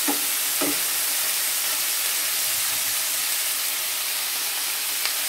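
Sliced bell peppers sizzling in hot oil in a stainless steel skillet, a steady hiss, with two light knocks of the wooden spatula within the first second.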